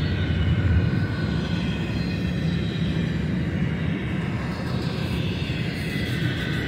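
Double-stack intermodal well cars of a freight train rolling past: a steady rumble of steel wheels on the rails, with faint high whining tones over it.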